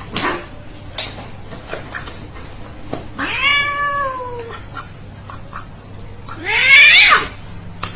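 A cat meowing twice: a long meow that rises and then falls about three seconds in, then a louder meow near the end.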